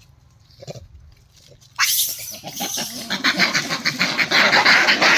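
Loud animal squealing and screeching that breaks out suddenly about two seconds in, in rapid, chattering pulses that keep on without a break.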